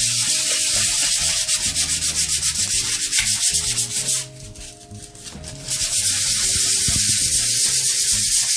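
Sandpaper rubbed rapidly back and forth over a hard, cured alkyd paint coat, smoothing down a stippled base coat. The strokes pause briefly about four seconds in, then resume.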